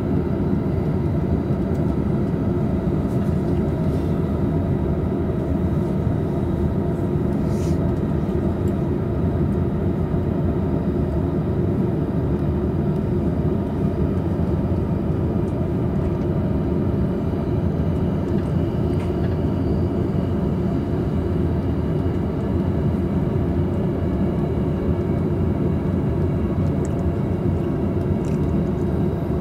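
Steady running noise heard from inside a double-decker Green car of a JR East Tokaido Line local train moving at speed: an even low rumble of wheels on rail, with a few faint ticks.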